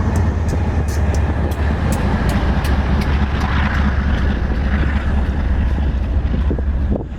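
Train rumbling past, a steady heavy drone with regular clicks about twice a second in the first few seconds, with wind buffeting the microphone. The sound drops away sharply near the end.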